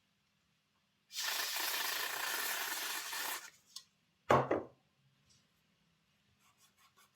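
The tender chassis and its pickups of an OO gauge model locomotive being cleaned out: a steady hiss for about two seconds, then a single sharp knock a second later, followed by faint small ticks.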